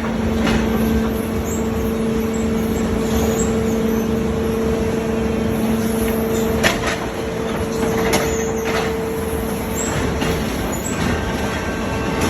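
Tunnel mucking loader at work in mud: steady machine noise with a constant hum, a lower hum that drops out a little past halfway, and a few sharp knocks soon after.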